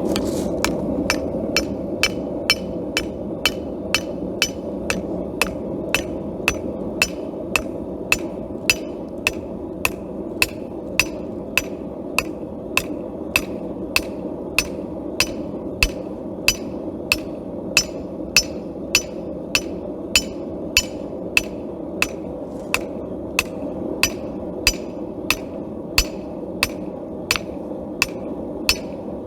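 Hand hammer striking hot steel on an anvil, drawing out a knife blade with evenly paced blows, about two a second, over a steady background rush.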